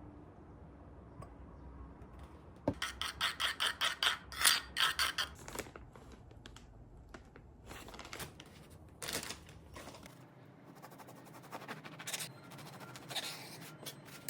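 Food being prepared by hand: a quick run of scraping strokes, about three a second, then a few scattered scrapes and light taps.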